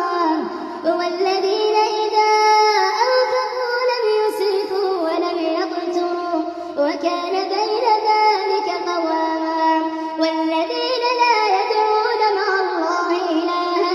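Melodic Quran recitation by a single high-pitched male voice, holding long notes with ornamented turns in pitch and brief pauses for breath.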